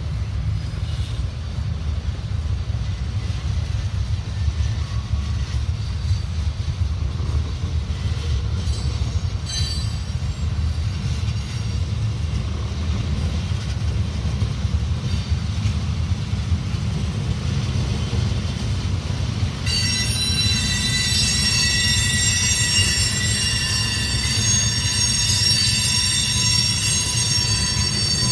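Freight cars (tank cars and boxcars) rolling past with a steady low rumble. About twenty seconds in, a high-pitched multi-tone squeal of wheels on the rails starts and carries on.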